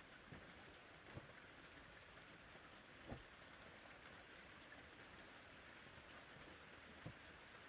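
Faint steady rain, with a few soft drop taps scattered through it.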